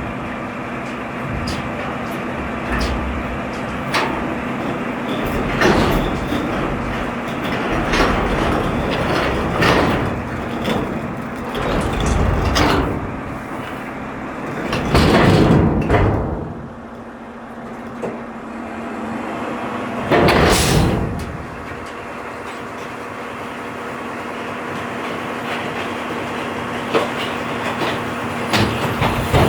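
Garbage truck running, with steady mechanical noise, frequent knocks and rattles, and two louder surges about halfway through.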